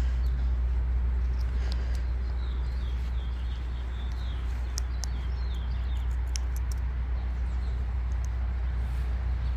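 Outdoor wind rumble on the microphone, with a run of faint bird chirps from about two seconds in and a few sharp high clicks after that.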